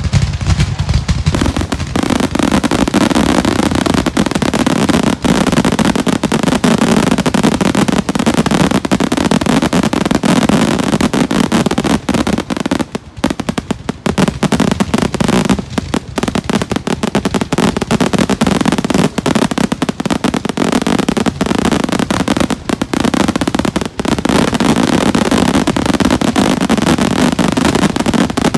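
Fireworks finale: a dense, nearly unbroken barrage of shell bursts and crackling, thinning briefly twice about halfway through.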